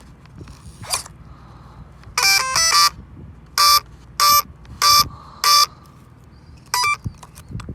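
Electronic speed controller (Spektrum Firma) power-up beeps in an RC truck: a short stepping start-up tune, then four evenly spaced identical beeps matching the 4S battery's cell count, and a final short beep as it arms.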